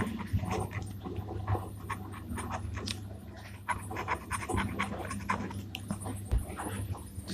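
A dog panting, over a low steady hum.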